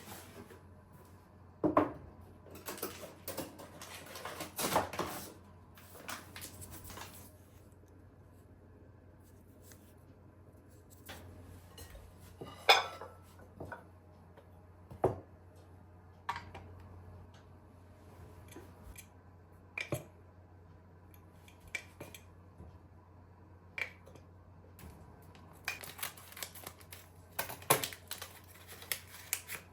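Kitchen dishes and utensils clinking and clattering in scattered short knocks, with a busier run of clatter in the first few seconds and again near the end, and quiet room tone between.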